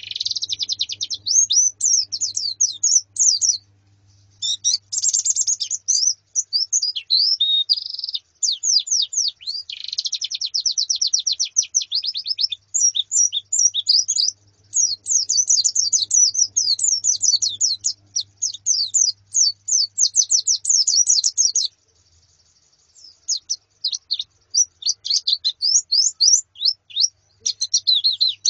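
A flock of white-eyes (pleci), females among them, calling: dense runs of quick, high chirps and twitters, with a brief lull about three-quarters of the way through.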